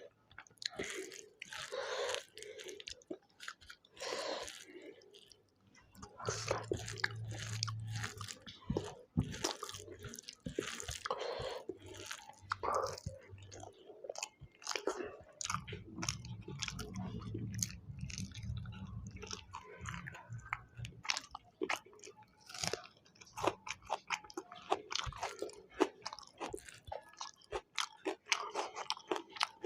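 A person chewing and biting food close to the microphone, with irregular wet chewing sounds and crunches throughout.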